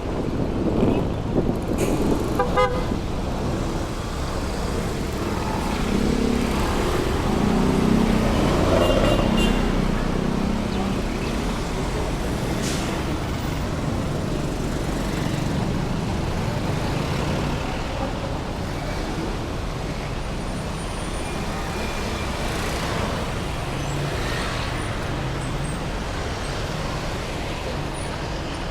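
Heavy city road traffic with engines running steadily, and vehicle horns tooting briefly a few times, one about two seconds in and another around nine seconds.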